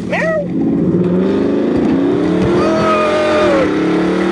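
Car engine revving, its pitch rising and falling, with a high steady squeal for about a second midway.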